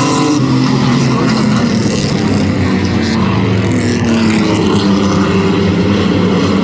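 Several racing trucks' engines running hard around a short oval, their pitches rising and falling and overlapping as the field goes by.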